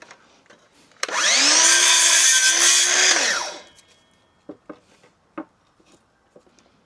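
Power drill spinning up, running at a steady high pitch for about two and a half seconds, then winding down. A few light knocks follow.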